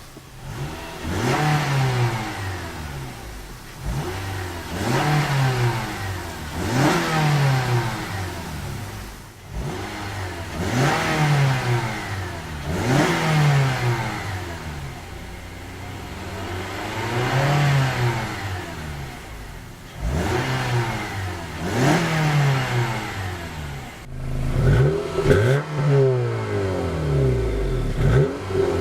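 2012 Honda CR-V's 2.4-litre four-cylinder engine being revved, about ten times in a row, each rev climbing and falling back toward idle.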